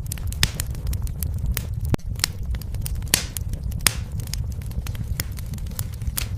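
Fire in a fireplace crackling: frequent sharp pops and snaps over a steady low rumble, with a few louder pops, the strongest just before four seconds in.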